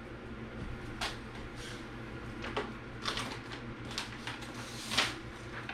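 Small handling noises: a scatter of short clicks and light rustles about once a second as things are picked up and moved about, the sharpest knock about five seconds in.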